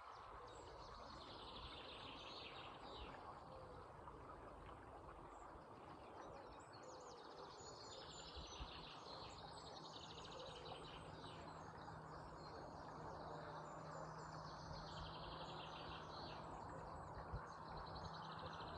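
Steady rush of flowing river water with birds singing over it, their song phrases coming in several separate bouts. A faint steady low hum joins about halfway through.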